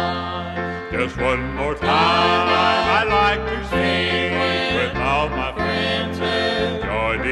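Gospel song with singing voices over a band: steady bass notes change every second or so under the vocal line, which comes in about a second in.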